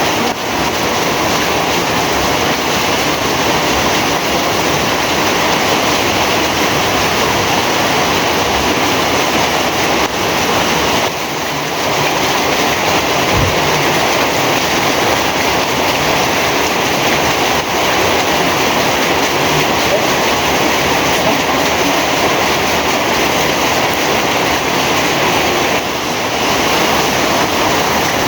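Heavy rain falling steadily, a dense, even rush of water with no let-up.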